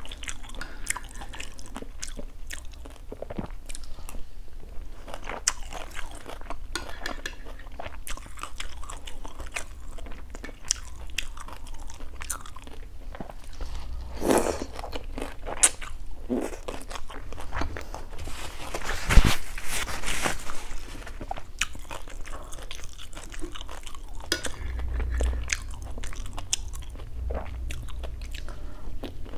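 Close-miked chewing and biting of fried rice-flour cake (bột chiên), with many small wet clicks and crackles of the mouth, and one louder mouth sound about two-thirds of the way through.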